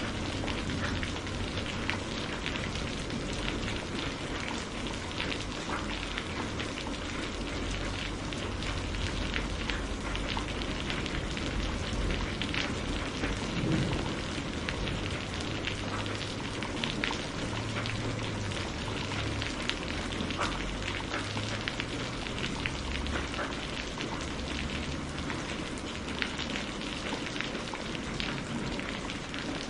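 Steady rain falling, a continuous hiss with many separate drops ticking close by. A low rumble comes and goes underneath, strongest around the middle.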